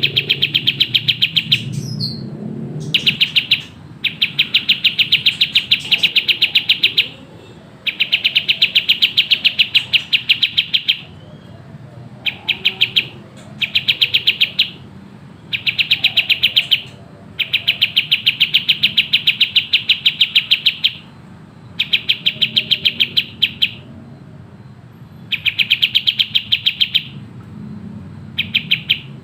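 Kapas tembak songbird singing in bursts of very fast, tightly packed high notes, each burst lasting one to three seconds, repeated with short pauses.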